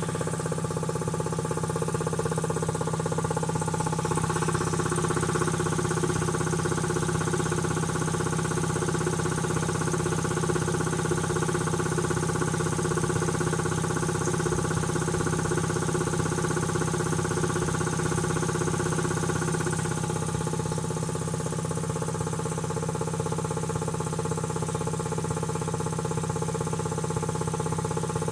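Quincy QT-5 two-stage air compressor pump running steadily on its first run after a rebuild.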